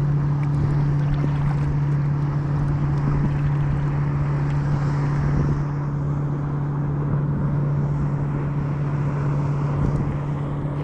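A motorboat engine drones steadily with a constant low hum, over a haze of wind and water noise.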